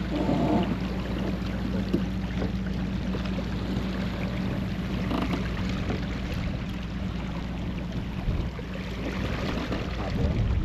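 Water rushing along a sailboat's hull while under sail, with wind on the microphone; a low steady hum fades out during the first few seconds.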